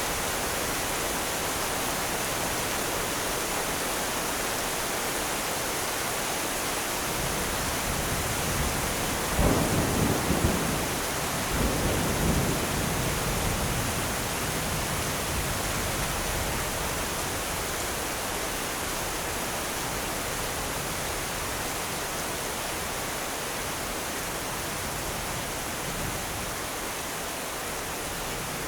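Steady rain hissing, with a rumble of thunder about a third of the way in that swells twice and then fades back into the rain.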